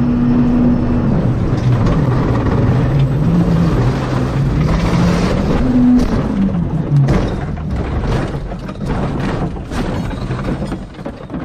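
Race car engine running, its pitch dropping and rising as it revs, followed by a rapid, irregular series of knocks and clatter as the sound fades.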